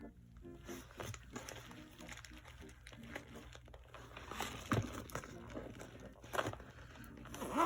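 Paper packaging crinkling and rustling as items are unpacked from a box, with a few sharper handling knocks in the second half.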